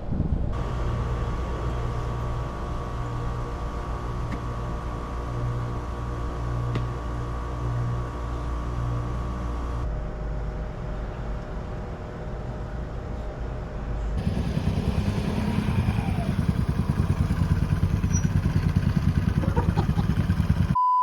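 Royal Enfield Meteor 350's single-cylinder engine running, with a steady low hum at first that becomes louder and rougher, with rapid even pulses, from about two thirds of the way in.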